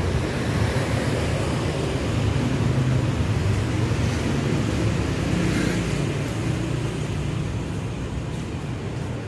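Road traffic: motor vehicle engines running and passing, a steady low rumble.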